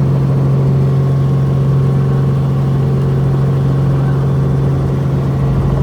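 Helicopter cabin noise in flight: a loud, steady drone of the turbine engine and rotor, dominated by an unchanging low hum.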